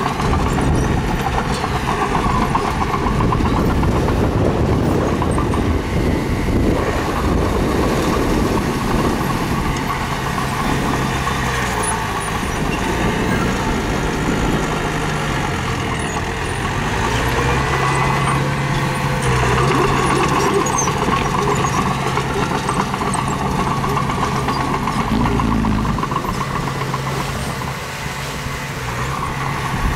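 Diesel engine of a mini bulldozer running under load while pushing stone, its pitch stepping up and down as the throttle changes.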